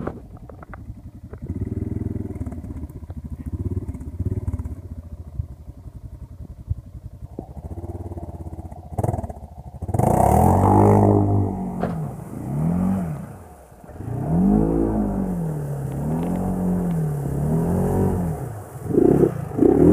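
Arctic Cat Mud Pro ATV engine revving, its pitch rising and falling again and again. It is fainter with short blips for the first half, then much louder from about halfway, with several hard rev-ups and drops in a row.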